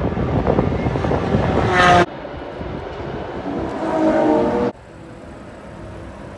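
Car engine accelerating, its pitch rising, cut off abruptly about two seconds in. A second rising engine note also cuts off abruptly near the end, leaving a quieter steady background.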